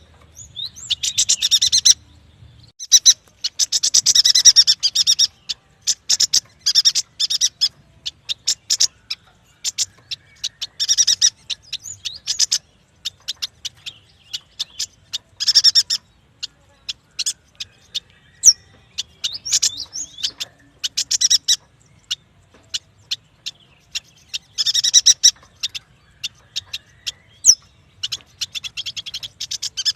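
Yuhina calling: a string of sharp, high chips broken every few seconds by dense, rapid chattering bursts of song.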